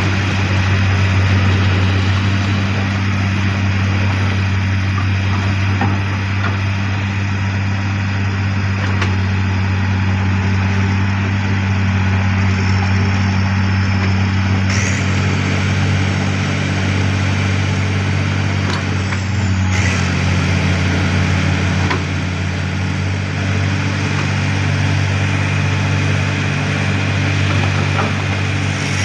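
Excavator with a vibro hammer attachment running steadily under load, a deep, even diesel drone, shifting slightly in pitch about halfway through and again some five seconds later.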